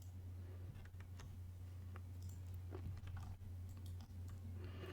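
Faint scattered clicks and light taps of playing cards and tokens being handled on a table, over a low steady hum.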